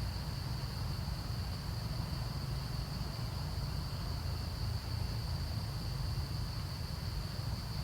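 Steady outdoor ambience: a continuous high, thin insect drone over a low rumble like wind on the microphone.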